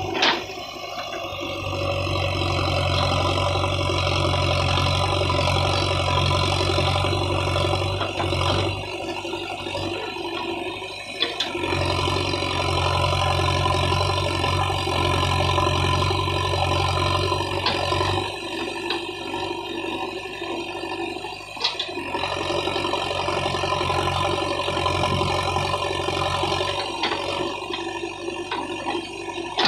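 JCB 3DX backhoe loader's diesel engine running steadily, with a deeper drone for two stretches of several seconds, and a few sharp knocks along the way.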